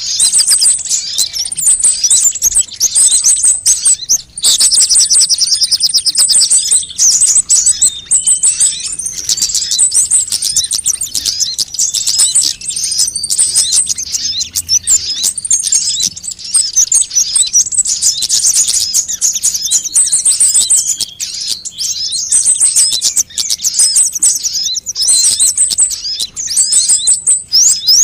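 Sunbirds calling over one another almost without pause, in dense high-pitched chirps and fast repeated trills. This is a bird-lure recording meant to draw in sunbirds.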